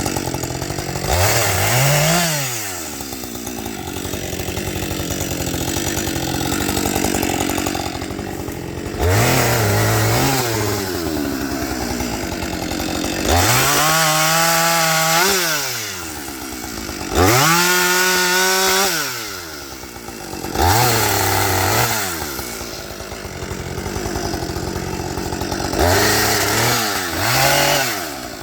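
Husqvarna 555 two-stroke chainsaw idling and being revved about six times, each rev climbing in pitch and dropping back to idle, two of them held for a couple of seconds.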